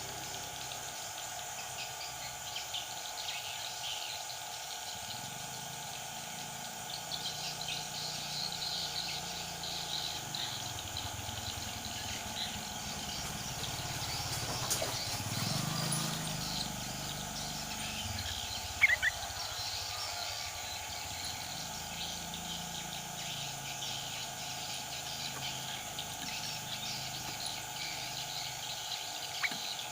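Sooty-headed bulbuls calling in scattered chirps over a steady background of insects, with two short sharp louder calls, one about two-thirds of the way through and one at the very end.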